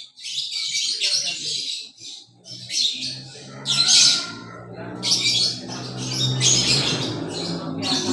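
Papuan hornbill (Blyth's hornbill) giving a series of harsh, raspy squawks, about ten in all, with a low steady drone underneath from about three seconds in.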